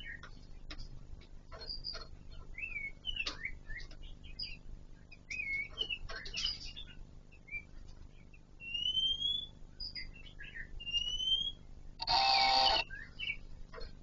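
Kon Ka Kinh laughingthrushes calling: scattered chirps, clicks and rising whistles, with a loud harsh buzzing sound lasting under a second near the end.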